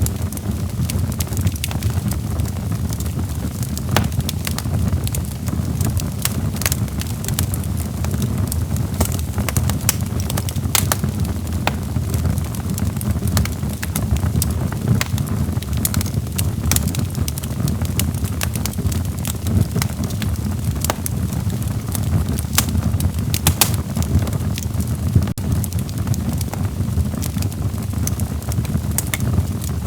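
Wood fire burning in a fireplace: a low steady rumble of flames with irregular sharp crackles and pops of burning logs.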